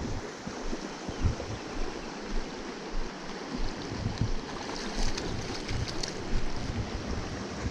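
Small spring creek running steadily, with wind gusting on the microphone.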